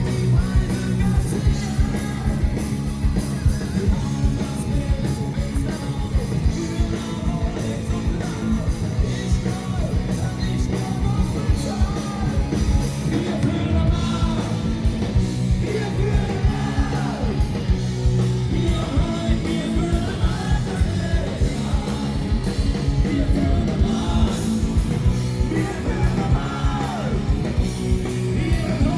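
Live rock band playing loudly, with a singer over a steady, driving drum beat.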